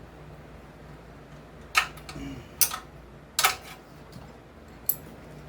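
Hand tools clicking and knocking against small engine parts: four short sharp clicks spread over a few seconds, over a steady low hum.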